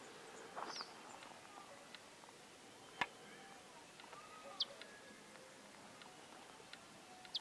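A few short, high bird chirps over faint outdoor quiet, with a single sharp click about three seconds in.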